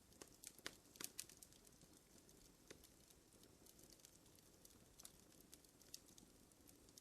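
Wood fire crackling: irregular sharp pops and snaps over a soft low hiss, with a cluster of louder pops about a second in.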